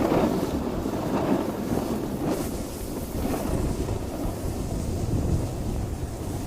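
Wind buffeting the microphone: a steady rushing noise with a rumbling low end and uneven swells.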